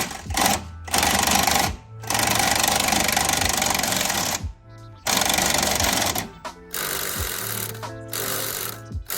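Impact wrench hammering in repeated bursts, the longest about two seconds, to loosen the 15 mm shock nut.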